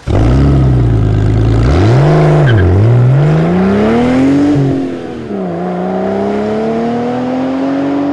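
Car engine revving. It starts abruptly at a low steady pitch, blips up and back down twice about two seconds in, climbs in one long pull, drops, then rises slowly again.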